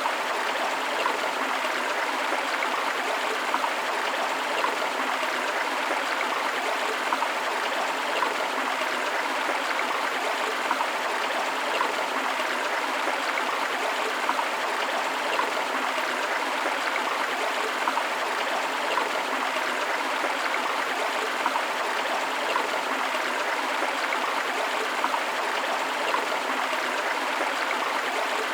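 Forest river flowing over rocks: a steady rush of water with small splashes and gurgles throughout.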